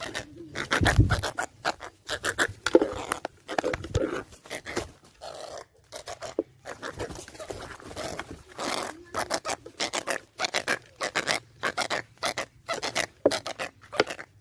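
A rapid, irregular series of short scratching scrapes, with a dull thump about a second in.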